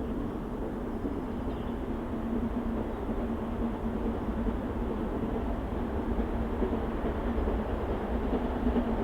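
Steam-hauled heritage train running along the line: a steady rumble of the train on the rails, slowly growing louder.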